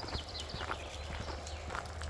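Footsteps on a forest path, about two steps a second, over a steady low rumble. A bird's short descending trill comes right at the start.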